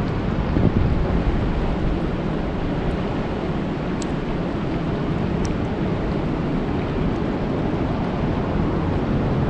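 Steady rain falling on a lake's surface, an even, dense hiss with a low rumble underneath and a couple of faint high ticks about four and five seconds in.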